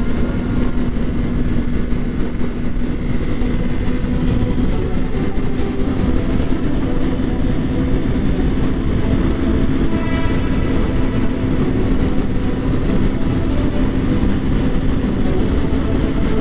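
Kawasaki Ninja 400's parallel-twin engine running at a steady freeway cruise, a constant drone under heavy wind rush on the helmet-mounted microphone.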